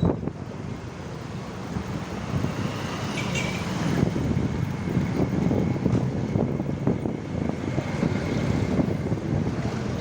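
Road traffic noise with wind rumbling on the microphone of a moving rider.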